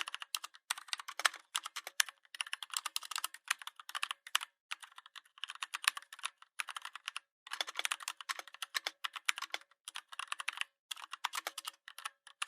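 Typing on a computer keyboard: quick runs of key clicks in bursts of one to three seconds, broken by brief pauses.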